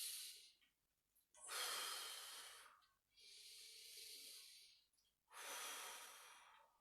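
A person taking slow, deep breaths in and out close to the microphone, each breath a hiss lasting about one and a half to two seconds, with short pauses between them.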